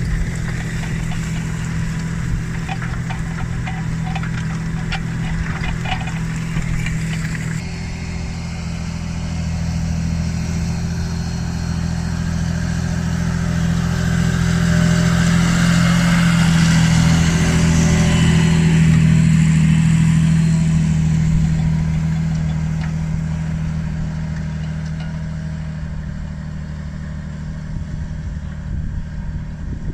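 John Deere 8530 tractor's six-cylinder diesel running steadily under load, pulling a plough at about 1300 rpm. A rapid clicking rides over the engine for the first few seconds, the sound changes abruptly about a quarter of the way in, and the engine then grows louder to a peak a little past the middle before easing off.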